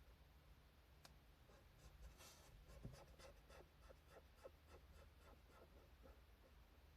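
Faint scratching of a drawing tool on paper as manga is drawn by hand: a tap about a second in, one longer stroke, then a run of short quick strokes at about three or four a second.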